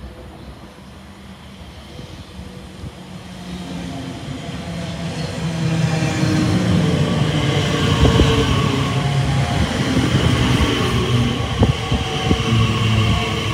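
An electric train approaching along the track, growing steadily louder over the first six seconds, then loud with a steady mechanical hum and sharp clicks of wheels over rail joints.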